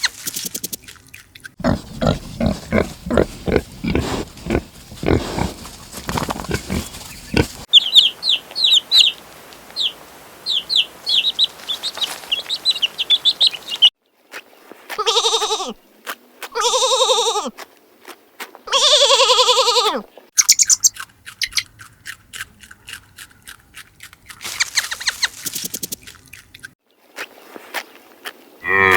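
A run of different animal calls, one after another: about six seconds of low rhythmic pulses, then rapid high chirping, then three long wavering calls, each about a second or more.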